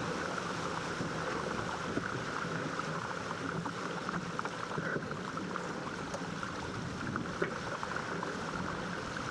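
Water rushing and splashing along the hull of a 470 sailing dinghy under way, steady, with scattered light ticks.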